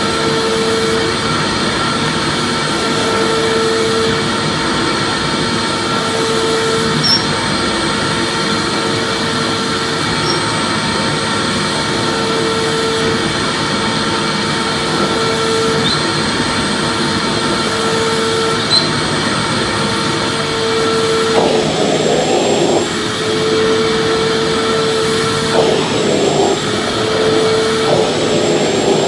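Vacuum cleaner motor running steadily, a dense whoosh with a constant whine, plus a lower hum that swells and fades about every two and a half seconds. A few brief rough rumbles come in over it near the end.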